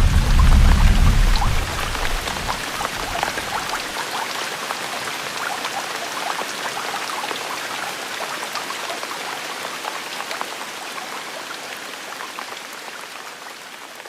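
Steady rain falling, a dense patter of many small drops. A deep rumble underlies the first two seconds or so and dies away, and the rain slowly grows quieter.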